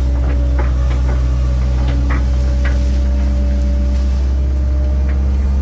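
Diesel engine of a Link-Belt 2700 hydraulic excavator running with a loud, steady drone, with a few short clicks in the first two seconds.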